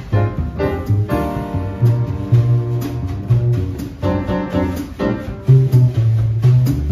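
Jazz piano trio playing a bossa nova tune: piano chords and melody over a double bass line, with light drum and cymbal strokes keeping time.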